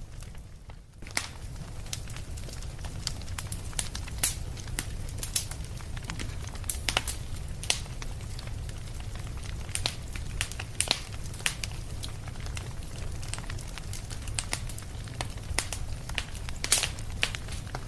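Fireplace fire crackling: irregular sharp pops and snaps over a steady low rumble, briefly quieter in the first second.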